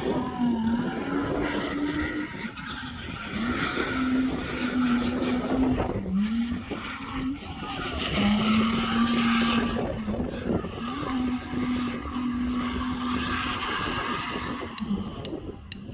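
Drift car engine held at high revs, its pitch dipping briefly and climbing back several times, with tyres skidding under it.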